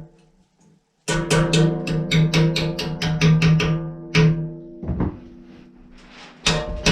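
A quick run of sharp metal strikes on a sawmill's circular saw blade, about four a second, while the blade keeps ringing. A few slower single strikes follow near the end.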